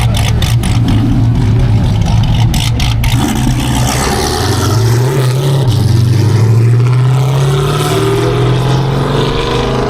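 Car engine running at a car meet, its pitch climbing in the middle and again near the end as it is revved or driven off.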